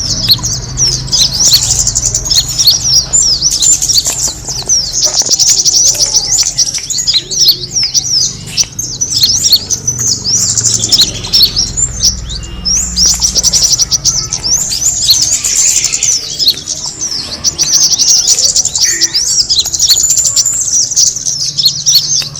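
Kemade bird call used as a lure: dense, rapid high-pitched chirps and trills repeating without a break, over a low steady rumble.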